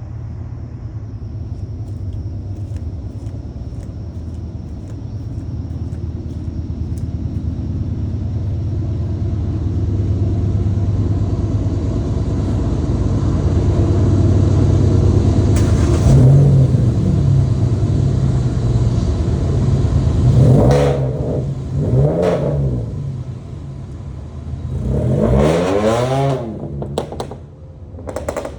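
Hyundai Elantra's exhaust, with newly replaced catalytic converters, as the car is driven and given gas. The engine drone swells steadily, then the engine revs up and falls back about four times in the second half.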